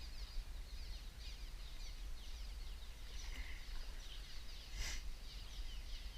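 A bunch of small birds chirping busily, many quick, short, falling notes overlapping, over a steady low rumble, with a single sharp click about five seconds in.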